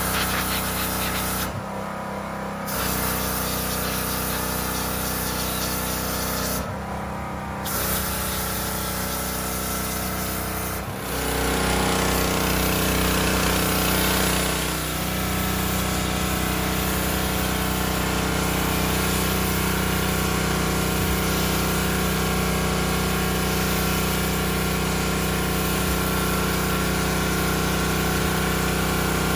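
Pressure washer running steadily with its spray hissing. The hiss cuts out briefly twice in the first several seconds, then runs louder and unbroken from about a third of the way in.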